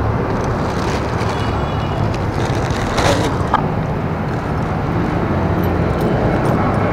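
Steady street traffic and engine rumble, with a few short clicks and a rustle of a plastic bag being lifted out of a motorcycle top box. The loudest of these comes about three seconds in.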